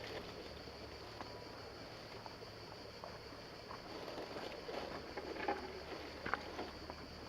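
Radio-controlled scale rock crawler creeping over rough ground: a low steady hum with scattered small crunches and clicks, the sharpest about five and a half and six and a half seconds in.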